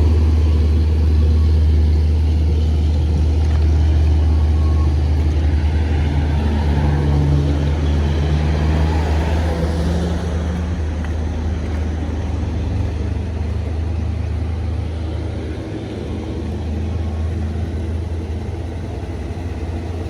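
Heavy vehicle's diesel engine running with a steady low drone. Its note rises and strengthens for a few seconds about a third of the way in, then the sound eases a little after about fifteen seconds.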